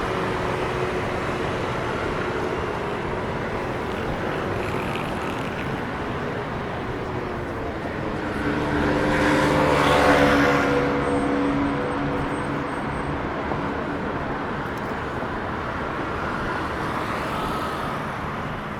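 City street traffic noise, with one motor vehicle passing close by, loudest about ten seconds in and fading after.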